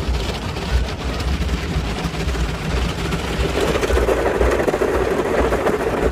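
Steady rumbling, rushing mechanical noise of an automatic car wash at work, swelling louder about three and a half seconds in.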